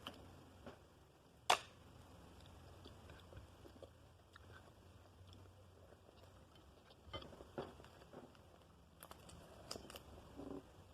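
Faint chewing and crunching of crab shell between the teeth, with one sharp crack about a second and a half in and a few more crunches near the end.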